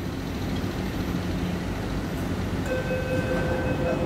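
MTR West Rail Line C-train standing at the platform with a steady low rumble; about two and a half seconds in, a steady multi-tone warning beep starts, the door-closing alarm.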